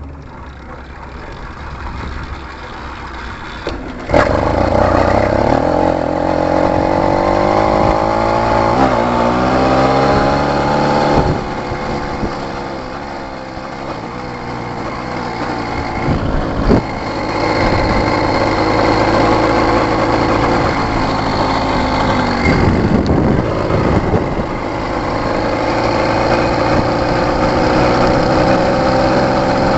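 80cc (66cc) two-stroke bicycle kit engine being bump-started by pedalling and releasing the clutch. It catches about four seconds in, then revs rising and falling as the bike accelerates, with a few brief throttle-offs, and settles into a steady run.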